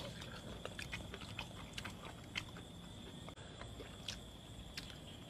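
People chewing grilled rat and pulling the meat apart with their fingers: scattered soft crunches, lip smacks and small clicks at irregular moments, over a faint steady high tone.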